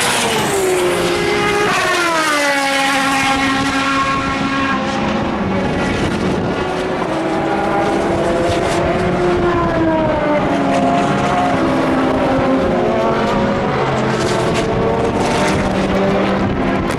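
Endurance racing cars passing at speed. One sweeps by about two seconds in, its engine note dropping sharply in pitch, then more engines approach and pass, their notes rising and falling.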